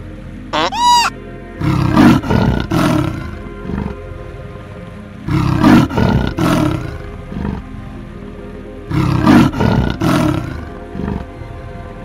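A short rising-and-falling call in the first second, then a tiger roaring in three bouts, each a quick run of several deep roars, about three to four seconds apart.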